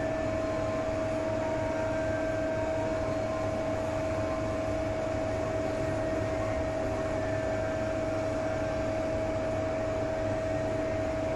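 CNC lathe running steadily, a constant machine hum with a steady whine held throughout.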